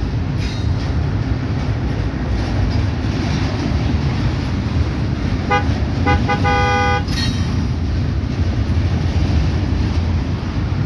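Locomotive horn sounding a few short blasts about five and a half seconds in, then one held a little longer, over a steady low rumble.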